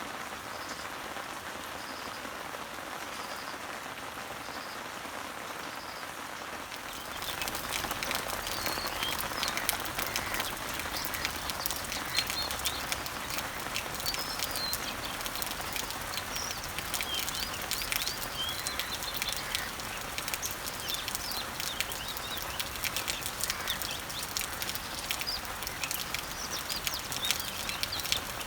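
Rain falling on garden leaves and trees, a steady patter. At first a short high note repeats about once a second; about seven seconds in the rain grows louder, with sharp individual drop ticks and birds chirping.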